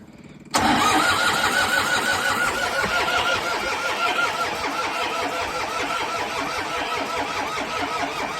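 Diesel tractor engine being cranked by its electric starter after the glow plugs are warmed, turning over in an even pulsing rhythm without firing. It starts suddenly about half a second in and cuts off just before the end.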